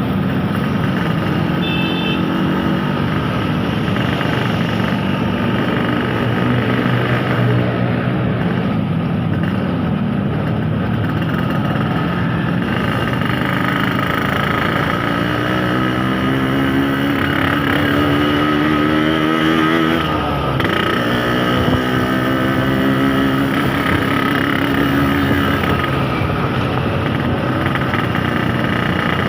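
Yamaha RX-King 135 cc two-stroke single-cylinder motorcycle engine running under way. Its pitch rises as it accelerates, drops sharply about two-thirds of the way through at a gear change, then rises again.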